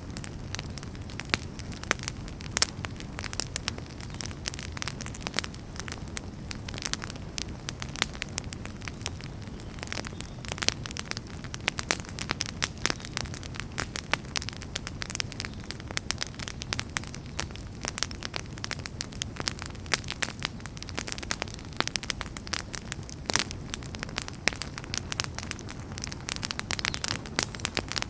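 Wood fire burning with dense, irregular sharp crackles and pops over a steady low rumble of flames.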